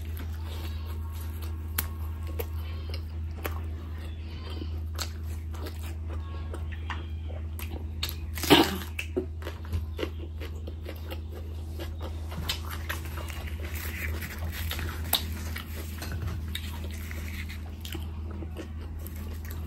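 Close-miked eating: chewing and biting of bhatura with mutton curry, full of small wet mouth clicks and smacks, with one louder sharp sound about eight and a half seconds in. A steady low hum runs underneath.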